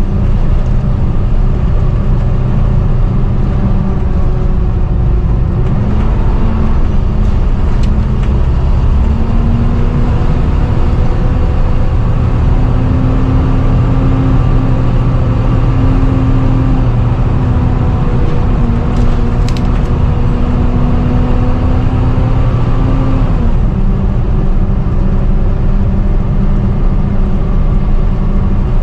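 Volvo B7TL double-decker bus engine running under way with a loud whining drone, the 'hoover' sound. Its pitch climbs as it pulls, holds steady, then drops sharply about four-fifths of the way through, with a couple of brief clicks along the way.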